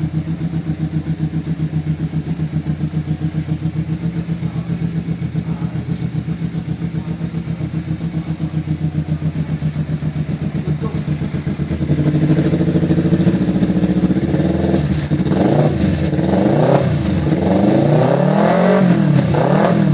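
Four-stroke Kawasaki Ninja motorcycle engine breathing through an SPR Racing F16 aftermarket exhaust, idling with an even pulsing beat. About twelve seconds in it runs louder at raised revs, then is blipped several times, the pitch rising and falling with each blip.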